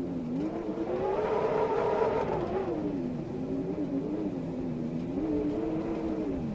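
Howling wind: a moaning tone rises over the first couple of seconds, sinks, then swells and dips again near the end, over a steady rushing noise.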